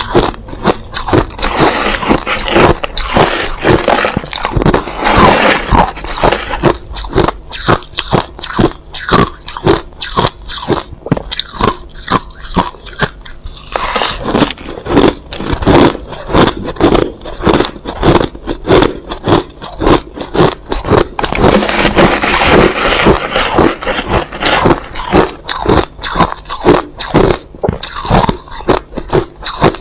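Crushed ice being bitten and chewed close to the microphone: a continuous run of loud, sharp crunches, several a second.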